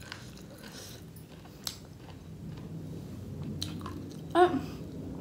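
Close-miked chewing of grilled pork sekuwa: soft, wet mouth noises with a few sharp clicks and smacks. A short hum of the voice comes about four seconds in.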